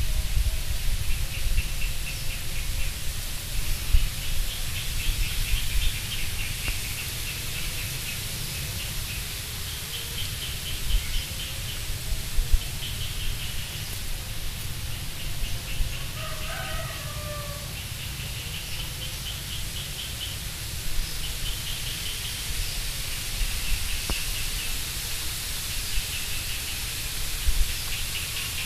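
Birds chirping: short trilled bursts every second or two, with one lower call about sixteen seconds in, over a low steady rumble.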